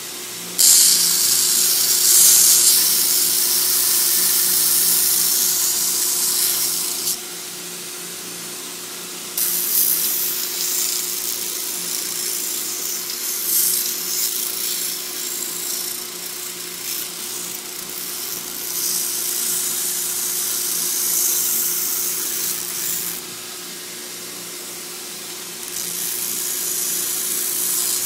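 Homemade 2x72 belt grinder, driven by a 3/4 horsepower bench grinder motor, running with a steady hum. A workpiece is pressed to the abrasive belt in three long spells of hissing grinding, with two short pauses where only the motor hum is left.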